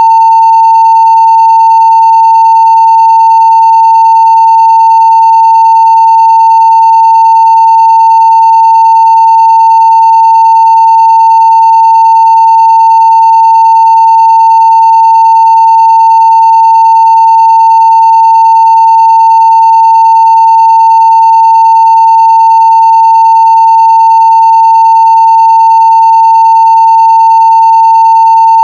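Steady 900 Hz sine-wave test tone at full scale (0 dB), loud and unbroken, with faint higher overtones.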